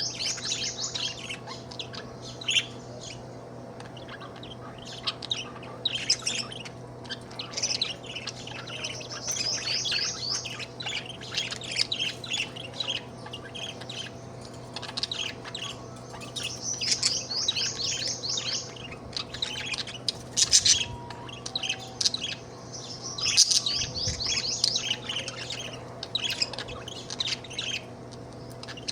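Budgerigar chattering: bouts of rapid chirps, trills and warbles throughout, with short pauses between them. A faint steady hum lies underneath.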